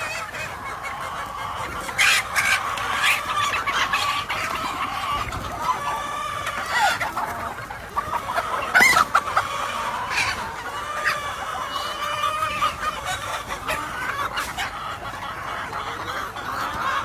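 A flock of gamefowl clucking and calling over one another, with a rooster crowing.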